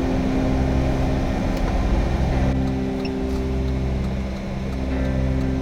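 Car engine and road noise while driving: a steady low hum with a continuous rumble underneath.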